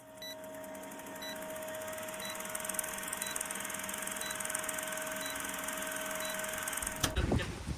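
Steady electronic hum and hiss with held tones and a short high beep about once a second, cutting off about seven seconds in.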